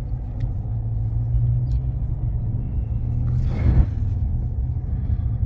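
Steady low rumble of a car heard from inside the cabin while driving, with a brief rush of noise about three and a half seconds in.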